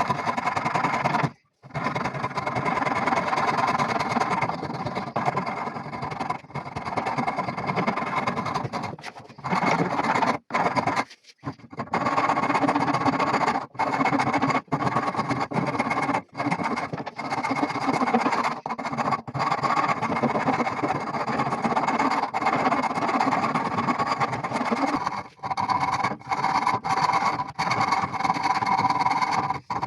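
A power tool's motor running steadily under work, broken by several brief sudden gaps.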